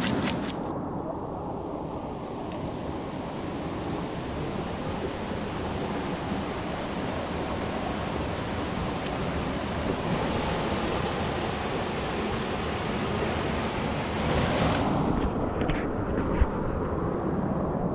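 Steady rushing of flowing water from a river or waterfall, swelling a little near the end, with one short knock.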